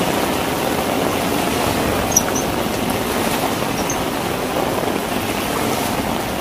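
Heavy rain pouring and water running over a flooded rooftop terrace, a steady hiss, with a faint click about two seconds in.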